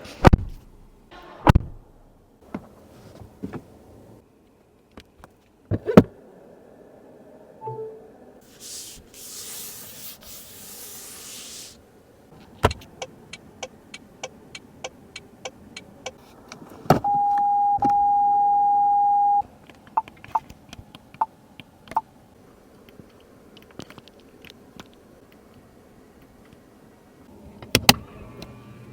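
Car controls and fittings being worked: scattered clicks and knocks, a few seconds of hissing rush, and a steady electronic beep lasting about two seconds partway through.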